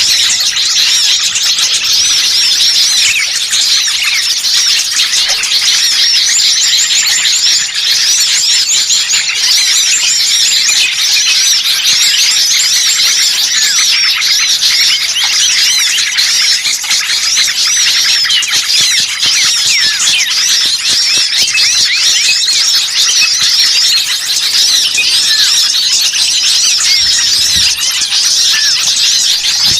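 Bird-lure recording of a noisy flock of small songbirds, many voices chirping and calling over one another in a dense, high-pitched, unbroken chatter, played to draw wild birds in.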